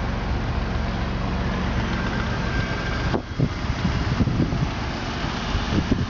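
2002 Jeep Liberty's engine idling with a steady low hum, heard from inside the cabin. About three seconds in the hum drops away and uneven low rumbles of wind and handling noise on the microphone take over.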